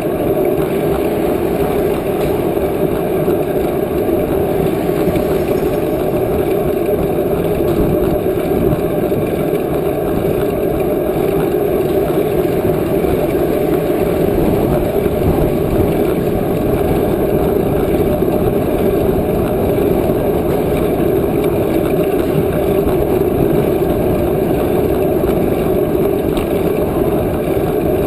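Wind rushing over the microphone of a camera carried on a moving bicycle: a loud, steady rush with no breaks.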